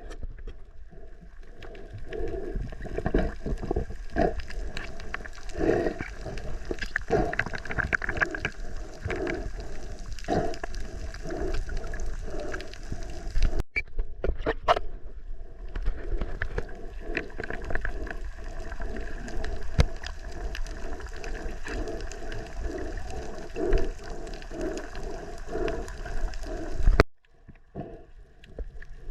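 Muffled underwater sound picked up by a camera held below the surface: water sloshing and gurgling against the housing in uneven pulses. It breaks off abruptly twice, about halfway through and near the end.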